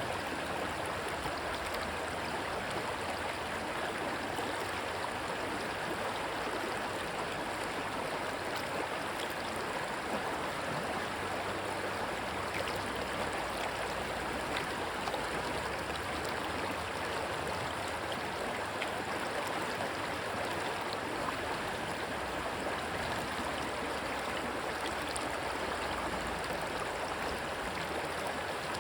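Steady rush of water from a stream, an even, unbroken flow.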